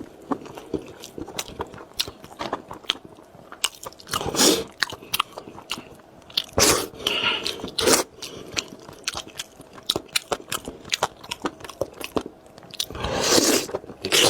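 Close-miked eating: bites crunching into food and chewing, with many short sharp clicks and a few louder crunches.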